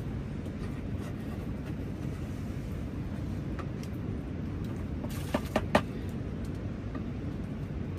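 Steady low rumbling noise, with three sharp clicks or knocks in quick succession about five seconds in.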